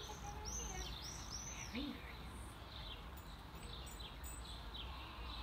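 Birds chirping and singing with repeated short arched notes, over a steady low rumble of outdoor background noise.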